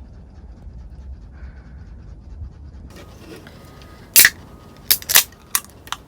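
Sharp clicks and knocks of objects being handled, about five in the second half, the loudest about four seconds in, over a low steady rumble.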